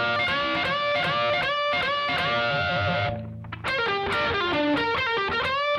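Electric guitar playing a fast, repeating lead lick with string bends that glide up in pitch, breaking off briefly about three seconds in before carrying on.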